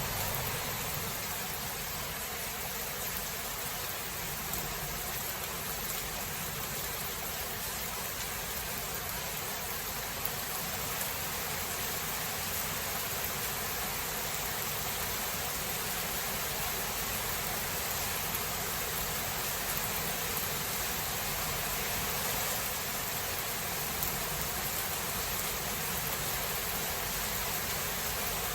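Steady rain falling, an even hiss with no thunder clap standing out.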